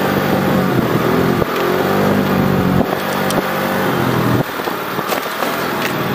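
Cruiser motorcycle engine running under way, its pitch rising and falling as the throttle is opened and eased off, with brief dips about a second and a half, three seconds and four and a half seconds in.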